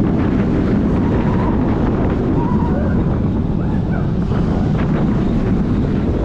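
Onboard a roller coaster in motion: loud, steady wind buffeting the microphone over the train's rumble, with a few faint riders' cries.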